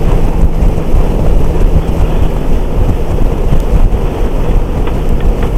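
Loud, steady wind rush on the microphone of a motorcycle moving at highway speed, with the engine's low drone underneath.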